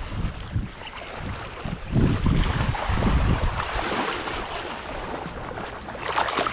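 Wind gusting across the microphone, a noisy rush with low buffeting surges that peak about two and three seconds in.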